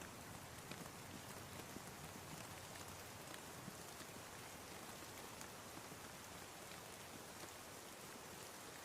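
Steady, soft rain falling, an even hiss with scattered faint drop ticks.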